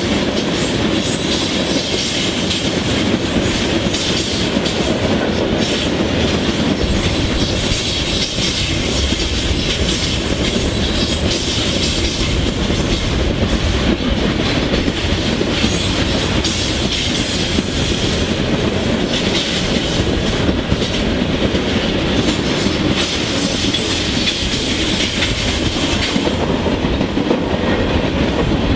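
Norfolk Southern mixed freight train rolling past, a steady loud run of freight cars and wheels on the rails.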